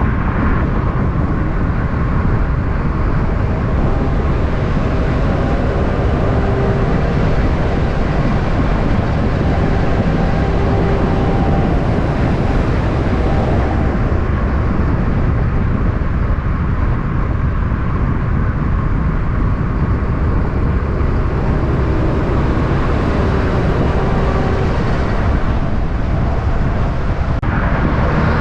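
Steady vehicle engine and road noise: a constant low rumble with a faint engine hum drifting slightly in pitch.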